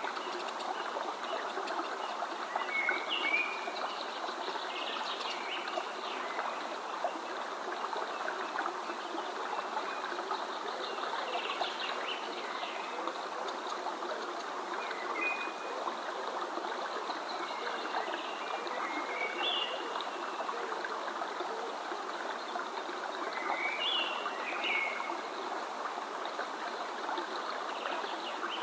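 A stream running steadily, with short bird calls at scattered moments over the water.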